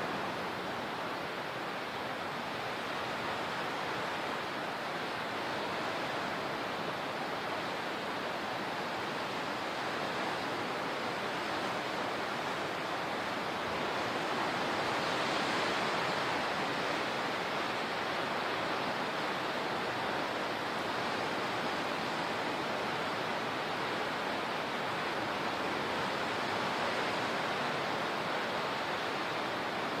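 Steady rushing water, a continuous wash of noise that swells slightly about halfway through.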